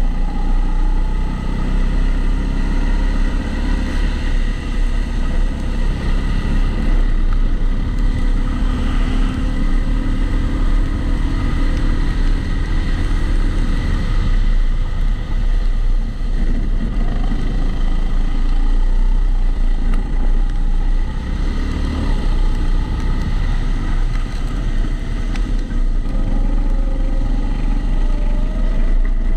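Kart engine running on track, its pitch rising and falling with the throttle, heard onboard through a camera's waterproof housing with a regular extra noise from the housing.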